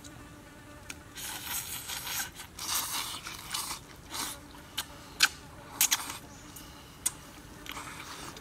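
Wet chewing and lip smacking of cooked snake meat being bitten and eaten, with several sharp smacks in the second half. A steady insect buzz hums underneath.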